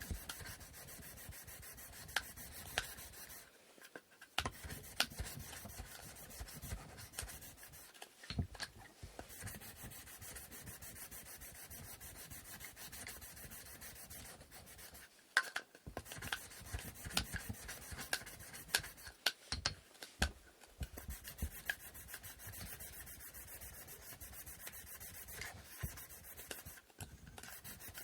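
Wooden inkle loom parts being hand-sanded with sandpaper: continuous rapid back-and-forth rubbing strokes, with brief pauses about 4, 8, 15 and 20 seconds in.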